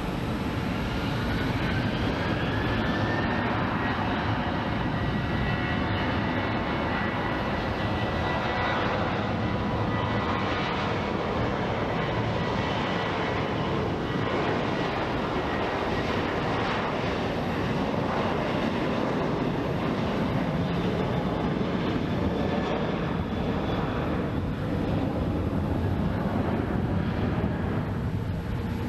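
Southwest Boeing 737's jet engines at takeoff power, a continuous rumble with a whine that rises in pitch over the first few seconds and then holds steady.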